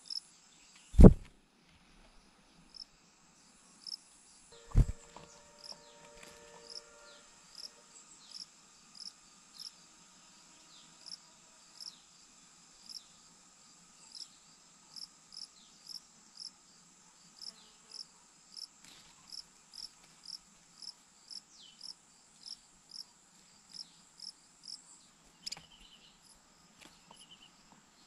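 Insects chirping: a steady high trill under a regular train of short, high chirps. Two loud thumps come about one second and five seconds in.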